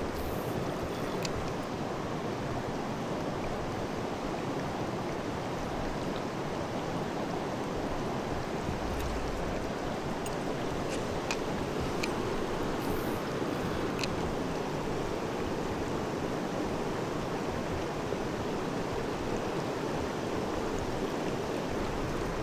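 Clear mountain stream rushing steadily over stones, with a few faint clicks.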